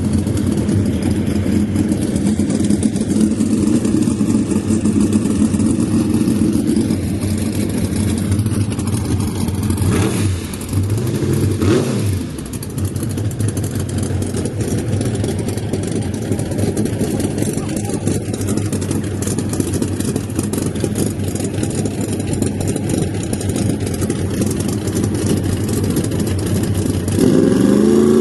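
Drag race car engines running loud and steady, with two quick throttle blips about ten and twelve seconds in, and an engine revving up sharply near the end.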